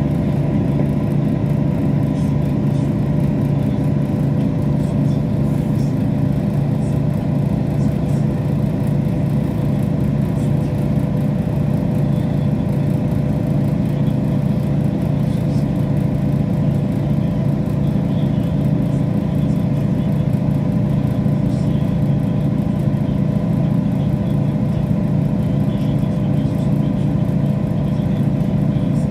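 Passenger train running between stations, heard from inside the carriage: a steady, even drone of the engine and running gear with no change in speed.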